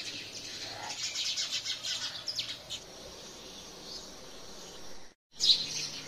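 Small birds chirping, with quick runs of high notes in the first half. The sound drops out completely for a moment about five seconds in, then louder chirps follow.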